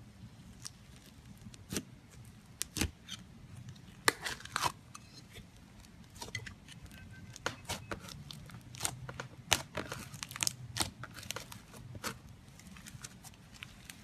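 Slime being squished and stretched, making irregular sharp clicks and pops.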